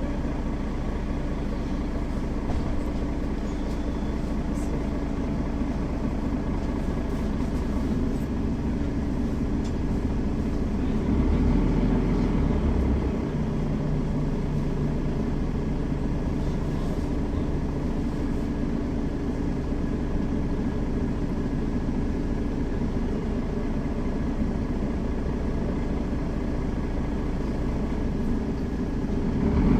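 Mercedes-Benz Citaro facelift city bus driving, its diesel engine and road noise heard from inside the passenger cabin as a steady drone. About eleven seconds in, the engine note grows louder for a couple of seconds.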